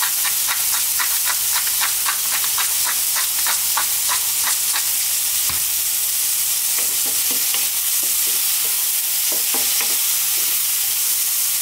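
Sliced mushrooms and onions sizzling in oil in a wok on full heat. A quick run of clicks comes over the first few seconds, and a wooden spatula stirs them near the end.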